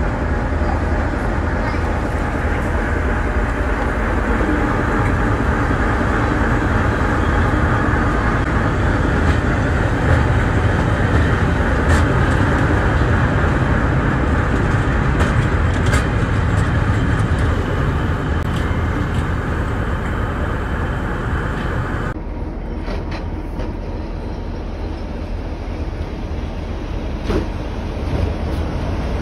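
Heritage railway train running on the line: a steady, loud rumble with rail noise. About three-quarters of the way through, the sound changes abruptly to a quieter, duller rumble.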